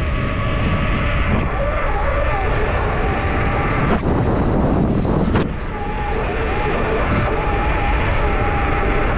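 Wind rushing over a helmet camera's microphone, mixed with the rattle and tyre noise of a downhill mountain bike descending at speed. About four seconds in there is a harsher stretch of a second or so.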